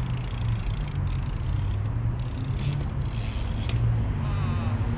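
BMX bike being ridden into a trick, its rolling mixed with a steady low wind rumble on the microphone, with a sharp knock about three and a half seconds in.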